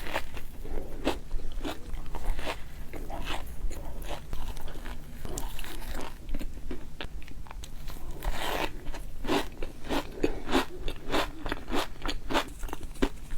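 Crunchy food being bitten and chewed, a steady run of crisp crunches that grows denser and louder in the second half.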